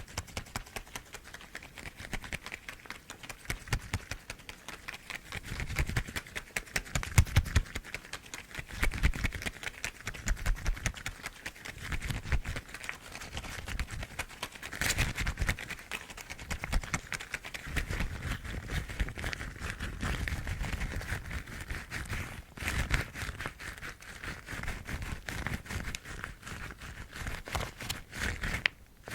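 Household rubber gloves rubbed, tapped and scratched close up, making a dense run of quick taps and squeaky rustles with occasional soft thumps.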